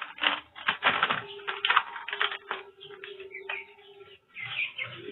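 Rapid clicking and rattling of feed and containers being handled during bird-feed preparation, with a few short bird chirps near the end.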